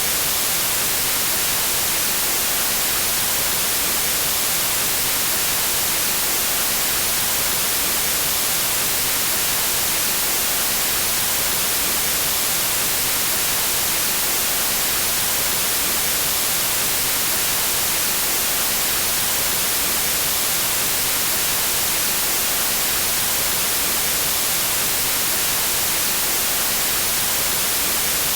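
Steady synthetic white noise: an even, unchanging hiss with most of its energy in the high frequencies.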